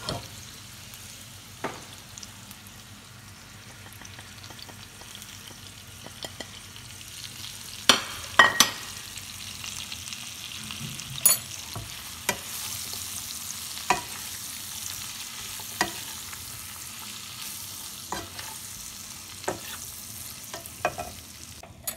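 Amla, carrot, chilli and ginger pieces sizzling steadily in hot mustard oil in a nonstick wok, while a spatula stirs them, knocking and scraping against the pan every second or two, loudest in a cluster about eight seconds in.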